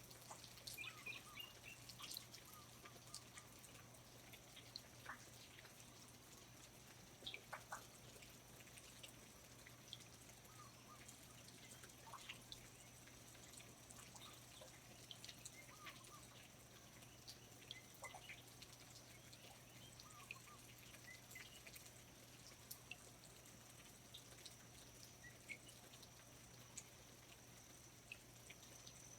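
Faint rainforest ambience: water dripping irregularly, with scattered short bird chirps, mostly in the first half.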